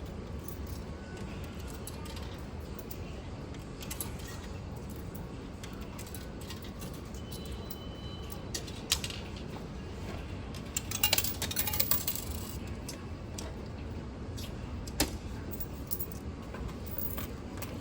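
Steady low rumble inside a Bangkok MRT subway train while riding, with scattered sharp clicks and a short burst of rattling about two-thirds of the way through.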